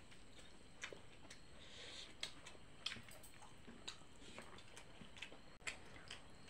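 Faint close-up eating sounds of a person chewing rice and curry eaten by hand: scattered short wet mouth clicks and smacks, about one every second.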